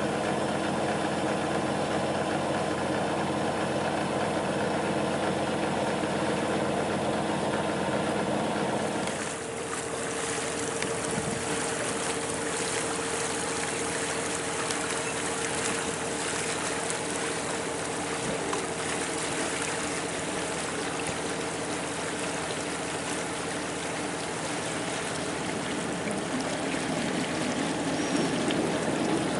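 Yacht's inboard engine running steadily under way, a low even hum. About nine seconds in it cuts abruptly to a steady rushing, water-like noise with a faint continuous tone.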